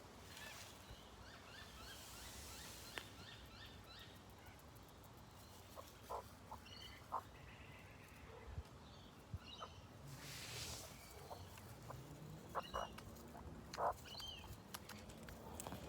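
Quiet backyard ambience with faint wild bird calls and chirps, and a few short sharp clicks or taps scattered through it, a cluster of them near the end.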